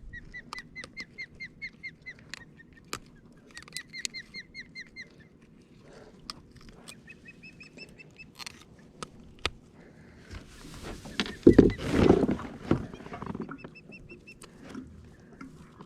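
A bird calling in quick runs of short, repeated high notes, several times over. About two-thirds of the way through comes a louder rush of rustling or splashing noise that lasts a few seconds.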